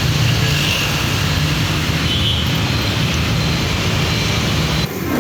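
Street traffic noise: a steady rumble of passing vehicles. It cuts off abruptly near the end.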